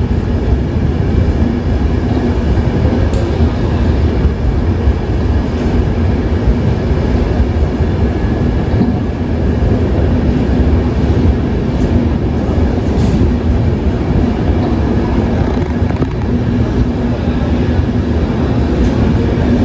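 Passenger express train running, heard from inside a coach: a steady, loud rumble of wheels and running gear on the track.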